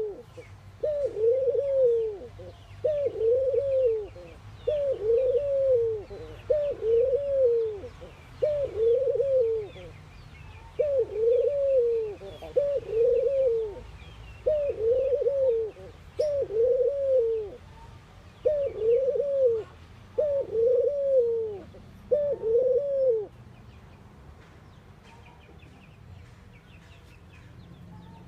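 Ringneck dove cooing: a repeated rising-then-falling coo about once a second, which stops about 23 seconds in. Small birds chirp faintly in the background.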